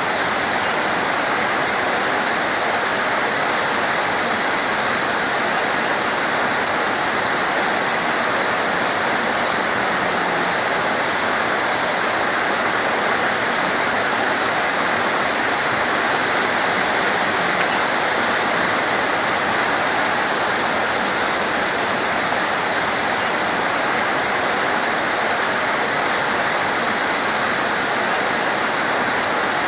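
Torrential rain pouring down in a steady, dense hiss, with two brief sharp ticks of drops striking something close.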